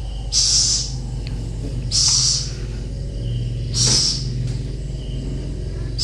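Pet owl hissing in short breathy bursts, four times about two seconds apart, over a steady low hum.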